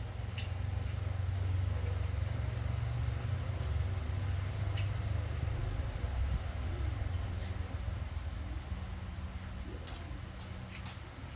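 Crickets chirping steadily, a fast even pulsing high in pitch, over a loud low steady rumble, with a few sharp clicks.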